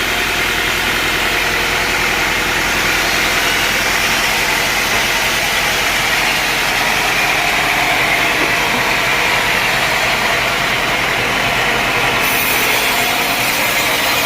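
Sawmill machinery running steadily: a continuous, even mechanical noise with no distinct strokes or cuts.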